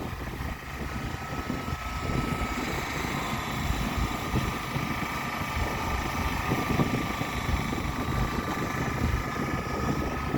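Low, fluttering rumble of a running vehicle with wind buffeting the microphone, under a steady high-pitched whine held without a break.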